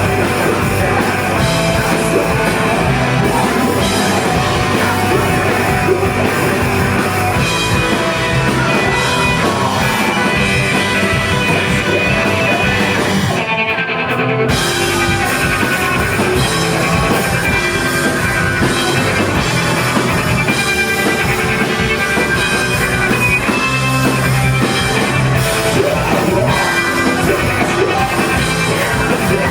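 Live post-hardcore band playing loudly, with drum kit and guitars and a short break about halfway through.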